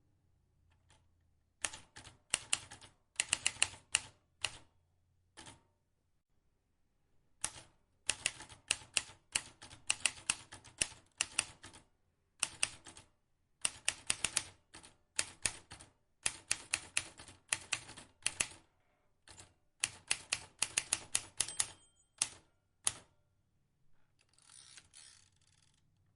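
Vintage manual typewriter keys striking in quick runs of typing, broken by short pauses, with a brief rasping noise near the end.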